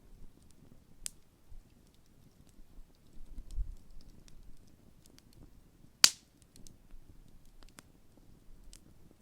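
Burning wood in a large campfire crackling: scattered faint pops, a sharper pop about a second in and one loud sharp pop about six seconds in, over a low rumble.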